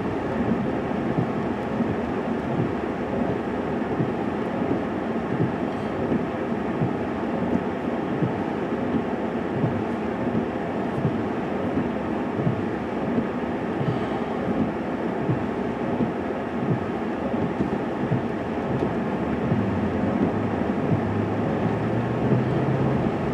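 Steady rumble of a moving vehicle heard from inside the cab: engine and road noise with irregular low thumps, joined by a steady low hum near the end.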